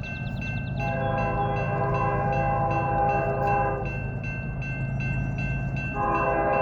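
Grade-crossing signal bell ringing steadily, about two and a half strokes a second, while an approaching Norfolk Southern locomotive's multi-chime horn sounds a long blast from about a second in to about four seconds, then starts another near the end, over the low rumble of the oncoming train.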